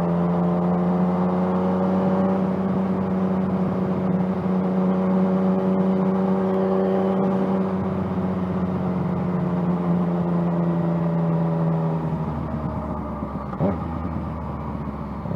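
Yamaha FZ-09's three-cylinder engine running at a steady cruise, its pitch easing down slowly. About twelve seconds in, the engine note drops lower as the throttle is rolled off, and a brief click follows a second or so later.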